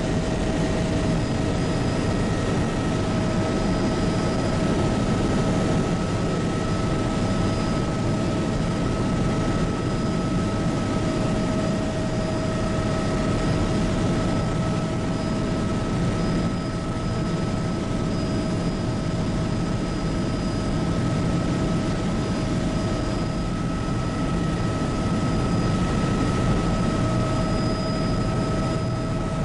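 Bell 206B JetRanger helicopter in flight, heard from the cabin: a steady turbine whine of several high tones over a dense low rotor and engine rumble.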